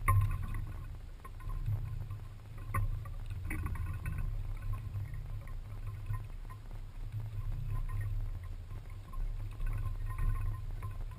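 Birds chirping faintly in short calls over a steady low rumble on the microphone.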